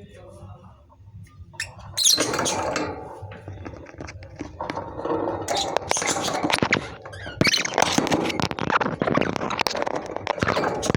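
Lovebirds chattering with rapid, high-pitched squeaks and chirps, mixed with sharp clicks, starting about two seconds in.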